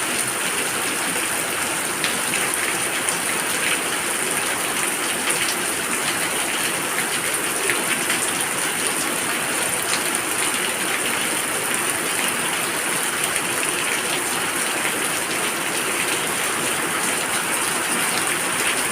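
Steady heavy rain falling and splashing on surfaces, a dense even hiss with scattered drop ticks.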